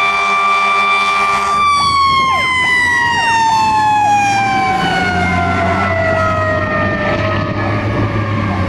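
Fire engine siren held at a steady high pitch. About a second and a half in it drops as the truck goes by, then winds slowly down in pitch, the way a mechanical siren coasts down. A second, shorter wailing siren and the engine's low hum sound underneath.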